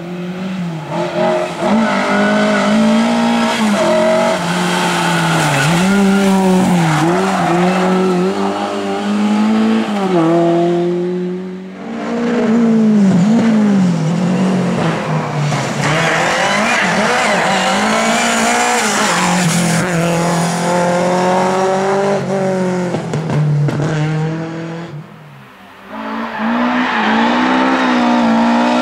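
Lada race-car engines revving hard, the engine note climbing and dropping again and again through gear changes and lifts off the throttle, with tyres squealing at times. The sound drops away briefly twice, about 12 seconds in and again near the end.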